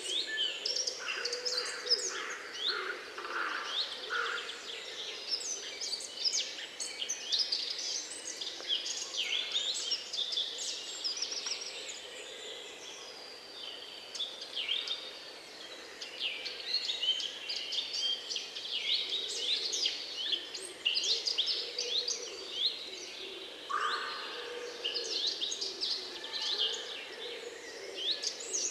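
Many songbirds chirping and singing at once: a dense, overlapping chorus of quick high calls and trills that thins briefly about halfway through.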